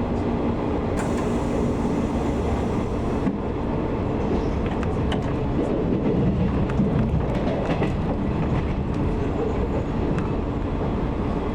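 JR 185 series electric train running, heard from inside the passenger car: a steady rumble with scattered clicks from the wheels passing over rail joints. A steady hum fades out about three seconds in.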